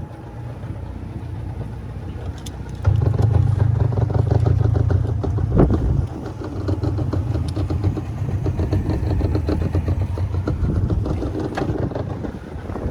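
Boat engine running with an even pulsing hum, picking up and getting louder about three seconds in, easing off briefly around six seconds, then running on.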